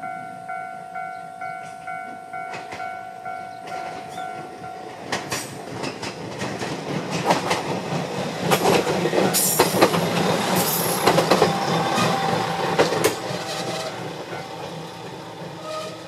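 A level-crossing warning bell dings a little under twice a second and stops about five seconds in. Then a single-car diesel railcar comes up and passes, its engine running and its wheels clicking over the rail joints, loudest in the middle before fading.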